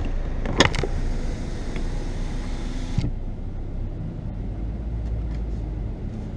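Automatic car wash machinery heard from inside the car's cabin: a steady wash hiss with a sharp knock about half a second in, which cuts off suddenly about three seconds in, leaving the low hum of the idling engine.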